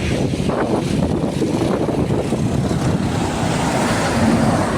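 Steady rumbling truck and road noise, with wind buffeting the microphone.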